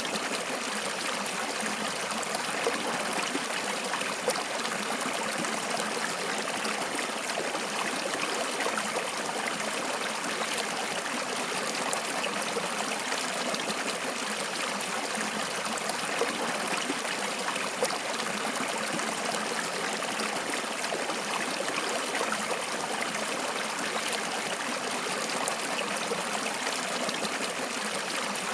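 Water flowing steadily in a stream, a continuous trickling and gurgling wash of sound.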